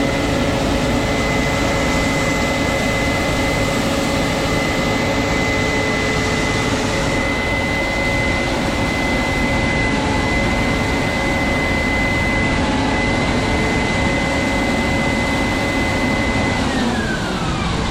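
Combine harvester running steadily at harvest speed, a dense mechanical noise with a high steady whine over lower tones. About a second before the end the whine and the lower tones fall in pitch together as the machine slows.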